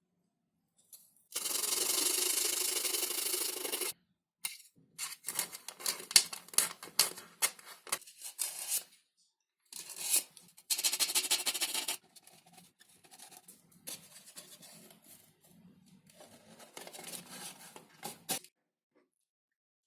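Thin XPS foam sheet being worked by hand. There are two stretches of steady rubbing, about two and a half seconds and about a second and a half long, with runs of short scratchy strokes around and between them, then quieter strokes that stop near the end.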